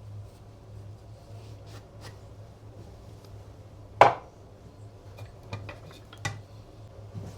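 Hard objects being handled on a workbench: one loud sharp clack about four seconds in and a few lighter clinks after it, over a steady low hum.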